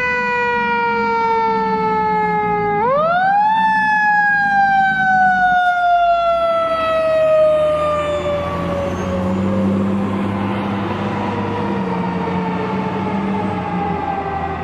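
Fire truck's mechanical siren winding up twice, each time a quick rise in pitch, then coasting down with its pitch falling slowly over about ten seconds, over the steady rumble of the truck's engine.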